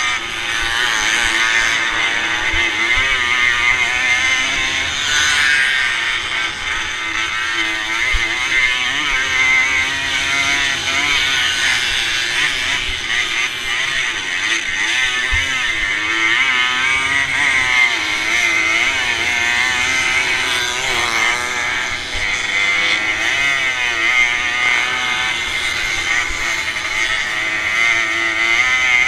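Racing motorcycle engine heard from on board the bike, revving up and down repeatedly as the rider accelerates and eases off through the corners of a dirt track.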